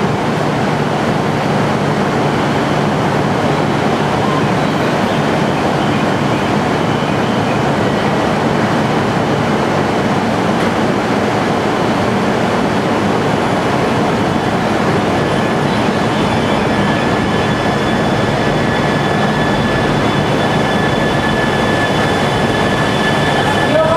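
Coupled E3-series and E5-series shinkansen standing at the platform and then pulling out, a steady running hum of the train's equipment throughout. A faint high steady tone joins a little past halfway as the train gets under way.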